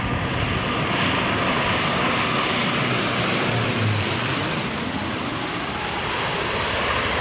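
Passenger airliner passing low overhead on landing approach, its engines making a loud, steady rush with a high whine that drops in pitch as it goes by, about halfway through.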